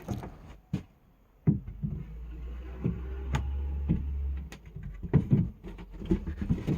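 A series of wooden and metal knocks and clunks as boat fittings are moved and pushed into place, with a low steady rumble for about three seconds in the middle.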